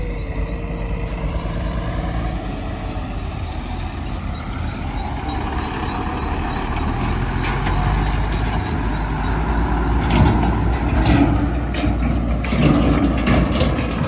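JCB 3DX backhoe loader's diesel engine working, its pitch gliding up and down as it revs. In the second half, a run of knocks and clatter joins in and grows louder near the end.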